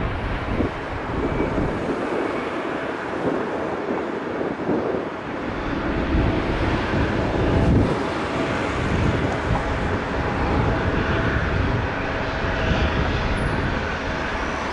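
Jet engine noise from a departing four-engine Airbus A340-600 airliner (Rolls-Royce Trent 500s), a steady rumble with a faint steady tone.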